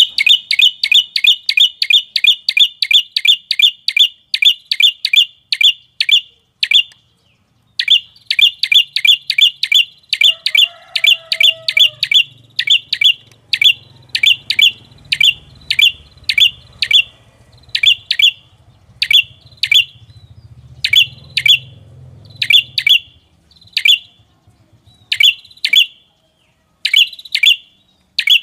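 Lure call of a prenjak kepala merah (a prinia): short, sharp chirps repeated rapidly, about three a second, breaking off briefly after about six seconds, then resuming and slowing to about one a second. A faint low hum lies underneath in the middle.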